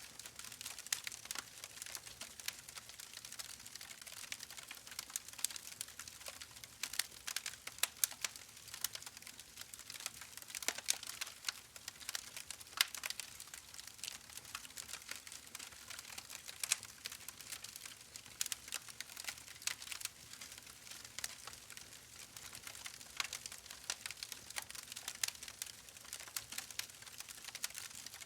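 Steady, irregular crackling: a dense stream of small clicks and pops, mostly high-pitched, over a faint hiss, with no voice.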